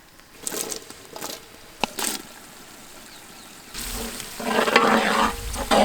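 Chopped green chilies going into hot oil with onions and spices in a cooking pot, sizzling as they are stirred, with a few knocks in the first two seconds and a louder rush of frying in the second half.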